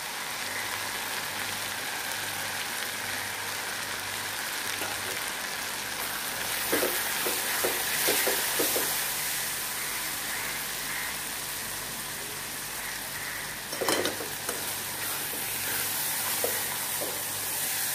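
Onion-tomato masala sizzling steadily in hot oil in a pot as freshly added ground spices are fried, with a silicone spatula stirring and scraping through it. A single sharp knock comes about two thirds of the way in.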